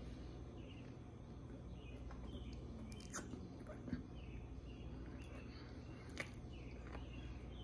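Quiet room tone with faint, short high chirps from birds repeating throughout, and a few soft clicks, the sharpest about three, four and six seconds in.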